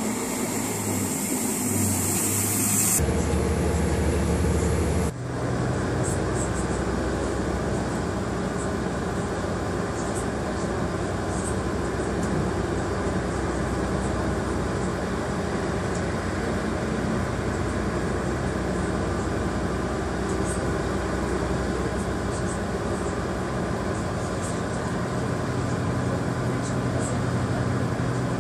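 A Bayerische Regiobahn diesel multiple unit pulls slowly into the platform, its diesel engine droning steadily over rail noise, with scattered short high squeaks. A loud hiss covers the first few seconds.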